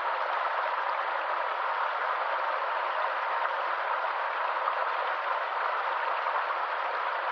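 A stream of water flowing in a constant, even rush, bright and hissy with no deep rumble.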